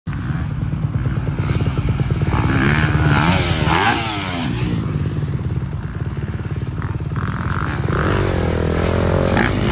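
Dirt bike engines running and revving, their pitch rising and falling in overlapping sweeps a few seconds in and climbing again near the end.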